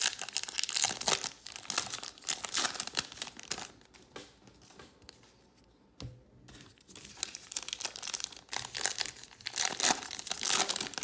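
Baseball card pack wrappers crinkling and tearing as packs are opened by hand. It comes in two spells of rustling with a quieter pause between them, and a single click about six seconds in.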